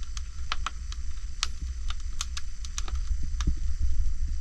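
Oak firewood fire crackling, with irregular sharp snaps and pops, over a low wind rumble on the microphone.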